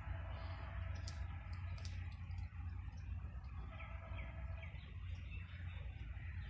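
Small birds chirping: short, scattered calls with a few sharp high ticks, and a run of quick falling chirps about four seconds in, over a steady low rumble.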